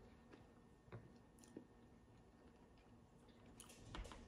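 Near silence: faint chewing of a snack, with a few small clicks about a second in and again near the end.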